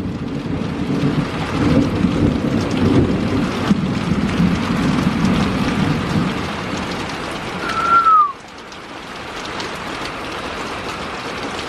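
Heavy rain with rolling thunder rumbling. The thunder stops abruptly about eight seconds in, leaving the steady rain. A brief falling whistle-like tone sounds just before the thunder stops.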